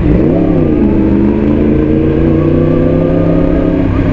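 Yamaha R1 crossplane inline-four through an Akrapovic titanium full-system exhaust, under way: the revs rise sharply and drop back in the first half-second, then the engine pulls with a steadier note that climbs slowly.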